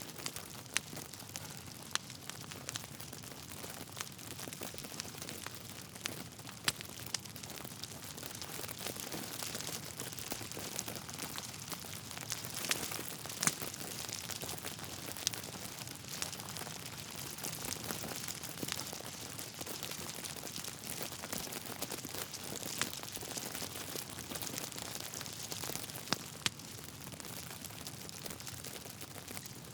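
Wood fire burning in a fireplace: a steady hiss with crackling and sharp, irregular pops of the burning logs, a few seconds apart.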